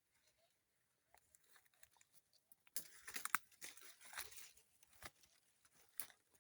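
Dry leaves and twigs crunching and crackling in irregular bursts, as someone pushes through dry undergrowth; faint at first, louder from about three seconds in.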